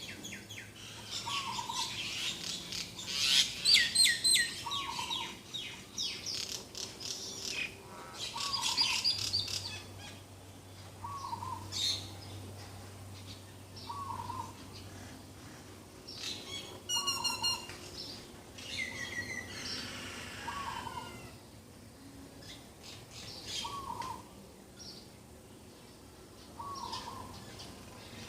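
Mixed morning birdsong: several small birds chirping and trilling, thickest in the first few seconds. Throughout, one bird repeats a short, lower note about every two seconds.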